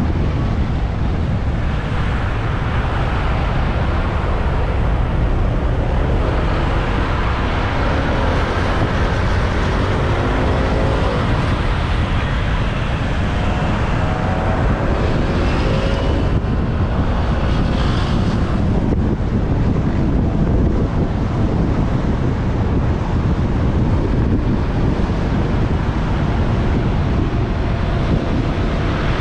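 Wind buffeting the microphone of a moving motorbike, with engine and traffic noise underneath. A pitched engine note rises and falls a few times around the middle.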